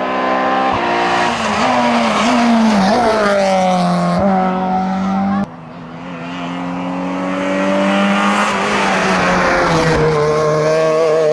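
A Renault Clio Sport's four-cylinder racing engine at full throttle, its pitch climbing and dropping through gear changes. About halfway through the sound cuts abruptly to an Opel Kadett GSi 16V's engine, growing louder as the car accelerates toward the microphone.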